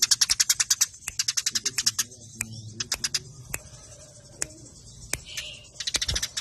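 House sparrows chattering in rapid trains of sharp chirps, about ten a second, the fast squabbling chatter of sparrows fighting. The trains break off into scattered single chirps midway and pick up again near the end.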